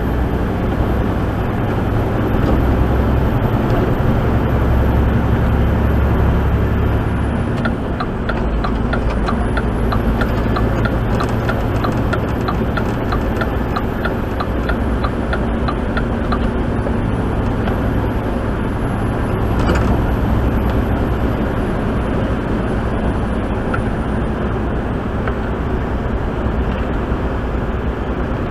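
Steady engine and road noise heard from inside a truck cab at highway speed on a snowy interstate. For several seconds in the middle there is a run of fast light ticks, about three a second.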